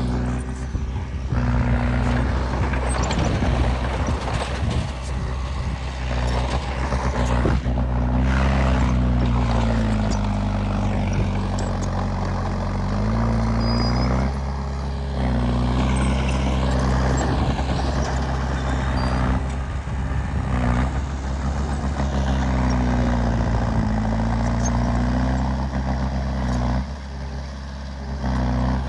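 Heavy earthmoving machinery with a diesel engine running loud under load, its pitch repeatedly sagging and rising again, with scattered clanks and rattles.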